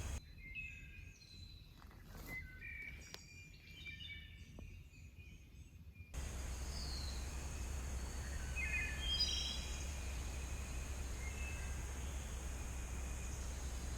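Songbirds chirping and singing in woodland, short high calls and a falling whistle, over a steady low background rumble that starts about six seconds in.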